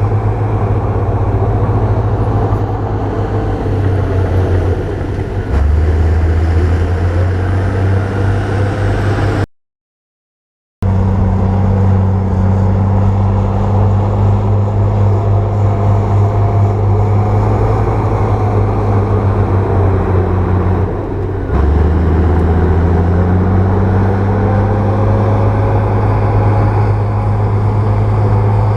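Bulldozer's diesel engine running steadily with a deep low hum, its note shifting lower twice. The sound drops out completely for about a second near the middle.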